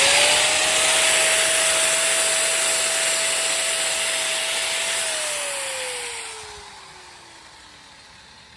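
Angle grinder running at full speed, grinding mill scale off steel tubing before welding. It holds a steady whine with a high hiss for about five seconds, then is switched off and winds down with a falling whine.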